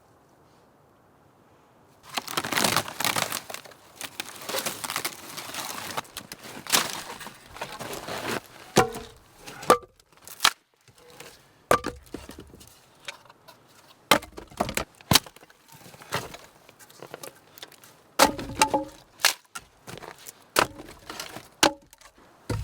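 Wood being chopped and snapped: irregular sharp cracks and knocks. They follow about two seconds of near quiet and a few seconds of rustling.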